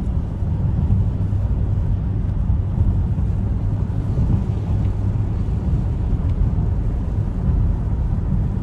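A 2015 Jeep Grand Cherokee driving at highway speed, heard from inside the cabin: a steady low rumble of road and engine noise.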